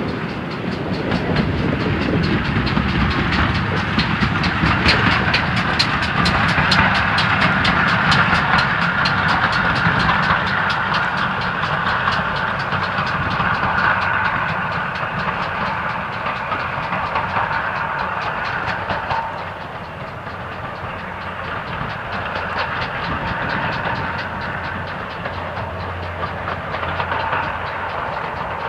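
Train running on the line, its wheels clicking quickly and evenly over the rail joints under a steady rumble. The sound is loudest in the first half and eases off after that.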